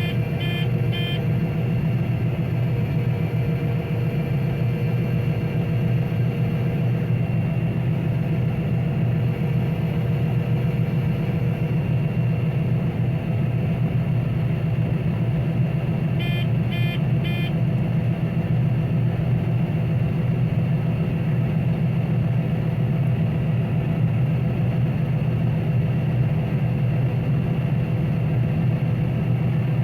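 Combine harvester running steadily while cutting wheat, a constant drone heard inside the cab. Twice, at the start and about sixteen seconds in, three quick electronic beeps sound.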